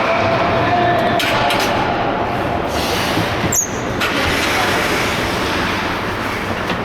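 Steady rink noise during an ice game, with a few short clicks and one sharp click about three and a half seconds in.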